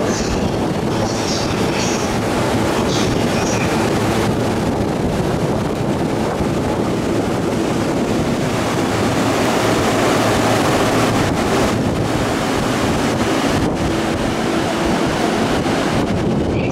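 Sotetsu 12000 series electric train pulling out of the station and running past close by: a steady rumble of wheels and motors that swells toward the middle as it gathers speed.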